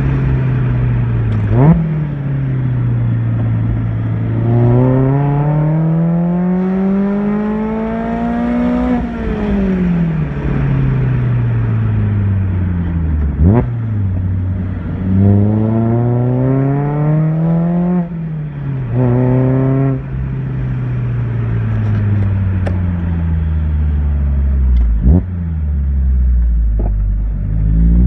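Mazda ND Miata four-cylinder engine through a JDL full exhaust, with OVT stage 2 cams, accelerating hard several times: the pitch climbs steadily and drops sharply at each gear change.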